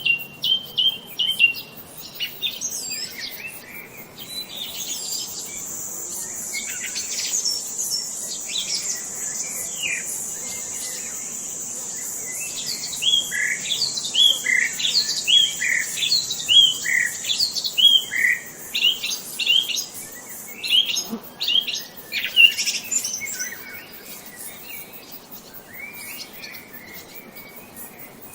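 Songbirds chirping and calling, with a run of short down-slurred notes repeated about twice a second in the middle. A thin, steady high note runs behind them from about five seconds in until about twenty seconds in.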